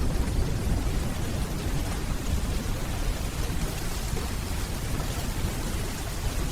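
Steady rainfall with a deep, continuous low rumble of distant rolling thunder underneath.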